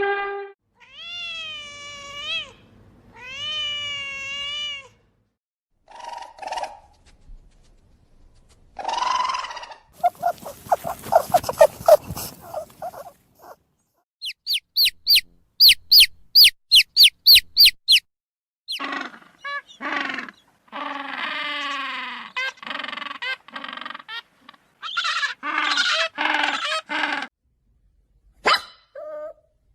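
A series of different animal calls, one after another, with short gaps between them. About halfway through comes a quick run of high chirps, about three a second.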